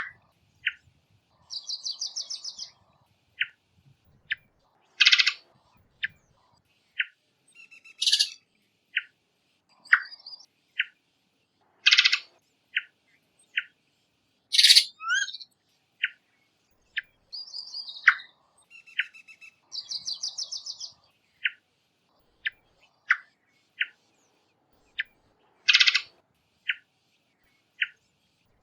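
Birds calling: a running series of short chip notes about once a second, mixed with several buzzy, rapidly pulsed trills and a few louder, sharper calls.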